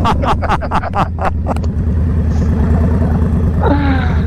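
Motorcycle engines idling after a rev, with a rapid run of sharp exhaust pops and crackles in the first second and a half as the revs drop, then a steady low idle. Another short rev falls away near the end.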